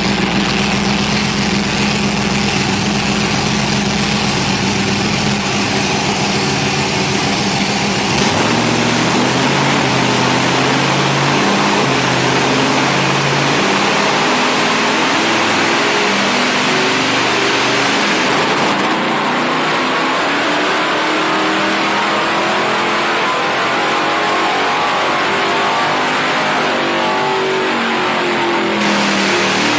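Engine running on a dynamometer, loud throughout. It holds a steady speed for about eight seconds, then the note changes suddenly and climbs in pitch as the revs rise through the rest of the run.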